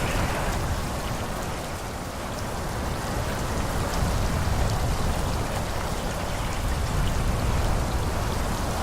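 Forest ambience of wind rushing steadily through trees, with a deep low rumble beneath. It eases slightly about two seconds in, then builds again.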